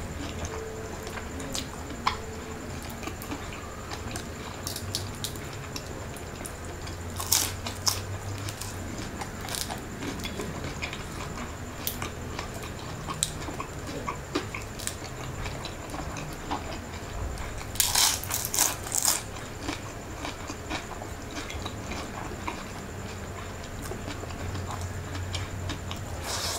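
A person chewing and biting food, with small scattered clicks and crisp crunches from biting into fried lumpia shanghai spring rolls. The loudest is a cluster of crunches a little past the middle, over a faint steady hum.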